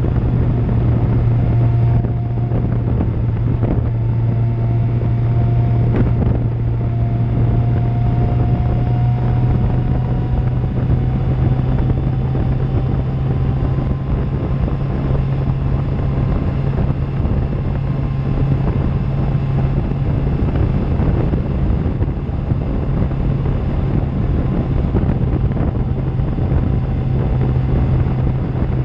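Suzuki GSX-R750 inline-four engine running at a steady cruise through an Akrapovic exhaust, its pitch held constant, with wind noise on the microphone.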